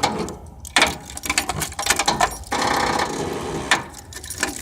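Small tractor engine cranking over on its electric starter without catching, then stopping after about three seconds; the owner puts the failure to start down to the cold.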